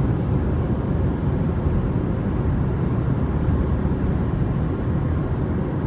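Steady low rumble of a car driving on the highway, heard from inside the cabin: tyre and engine noise.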